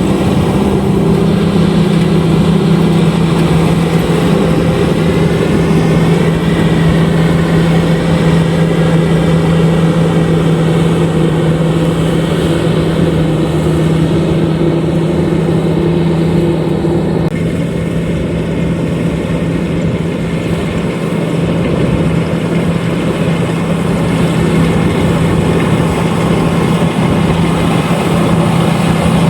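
LOVOL RG130EVO rice combine harvester running steadily: a loud, constant machine drone with a strong low hum. The level dips slightly a little past the middle and then recovers.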